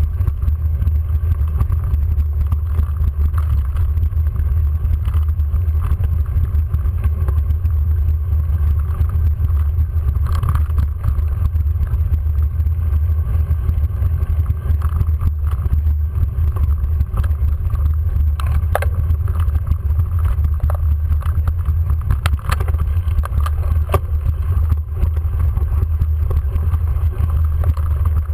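Steady low rumble of wind and riding vibration on a bike-mounted camera's microphone during a steep mountain-bike climb, with a few sharp clicks near the end.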